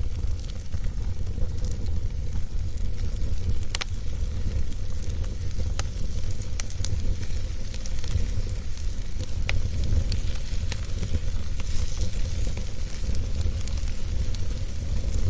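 Wood fire burning in a fireplace: a steady low rumble of flame with scattered crackles and sharp pops, a few louder pops along the way.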